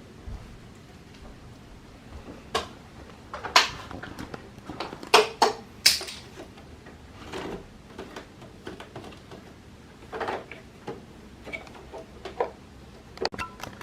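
Irregular plastic clicks, taps and knocks of a split-type air conditioner's indoor unit parts being handled and fitted back together, a few sharper knocks standing out among lighter taps.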